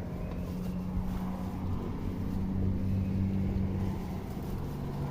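A motor running steadily with a low hum, a little louder in the middle.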